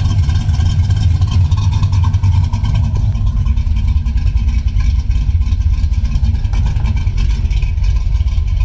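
1976 Chevrolet Camaro engine running at a steady idle, its exhaust note low and even.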